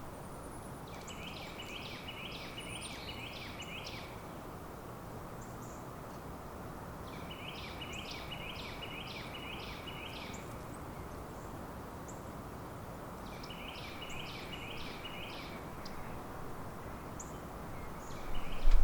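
A songbird singing three phrases, each a quick run of six or seven repeated notes, about six seconds apart, over a steady outdoor background hiss. Near the end a low rumble sets in.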